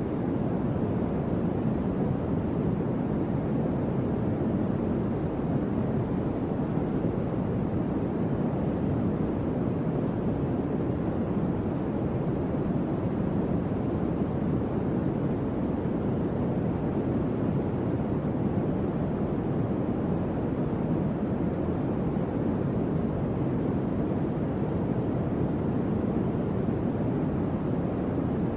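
Electric fan running: a steady, low, even whoosh of moving air that does not change.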